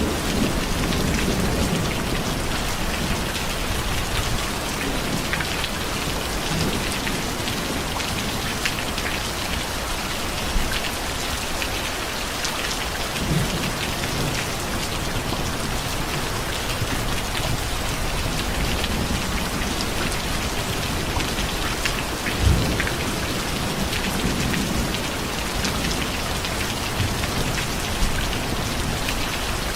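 Steady, heavy rain falling on surfaces, with a low rumble of thunder dying away in the first couple of seconds. A few louder drops knock sharply now and then, the loudest about three quarters of the way through.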